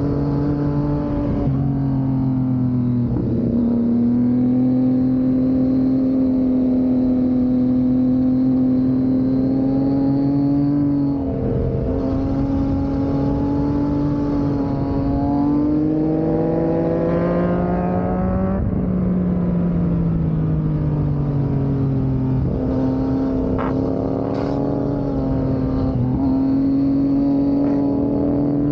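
Yamaha MT motorcycle engine pulling uphill under load, its note holding mostly level with a few brief breaks for gear changes. Past the middle the pitch climbs for a couple of seconds, then drops away and settles again.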